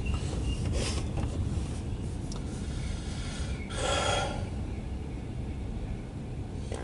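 Steady low rumble with a single audible breath, a sigh or exhale, about four seconds in.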